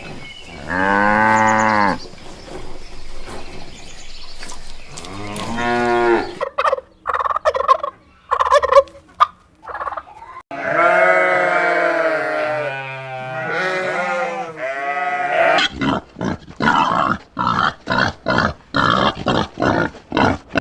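Cattle mooing: a short moo about a second in, another around six seconds, and a long moo that wavers in pitch from about eleven to fifteen seconds. Near the end comes a quick run of short, clipped animal calls.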